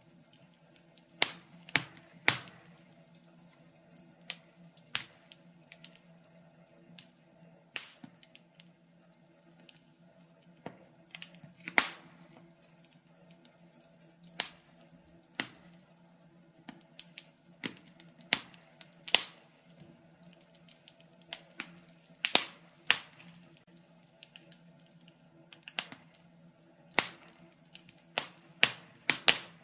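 Wood fire in a fireplace crackling, with irregular sharp pops and snaps of uneven strength over a faint steady low hum.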